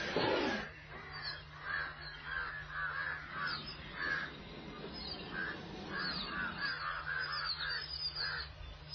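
Birds calling in the background: a steady run of short, repeated calls, a few each second. A loud falling sweep comes right at the start.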